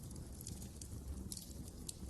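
Fireplace fire crackling: irregular sharp snaps and pops over a low, steady rumble of the flames.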